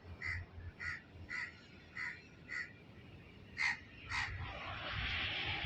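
An animal call, most like a crow's caw, repeating about twice a second, with two louder calls about four seconds in. A steady rushing noise then rises and holds.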